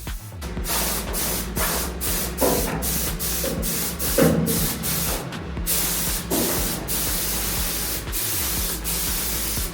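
Primer being sprayed onto car floor metal: a steady hiss of spray, broken by many brief pauses of the trigger.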